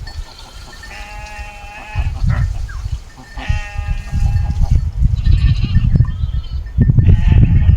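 Two drawn-out bleats from a goat or sheep, each about a second long, under a loud low rumbling noise that grows stronger near the end.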